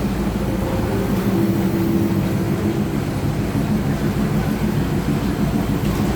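Diesel railcar's engine running with a steady low hum and a faint higher tone, as the commuter train comes into the station.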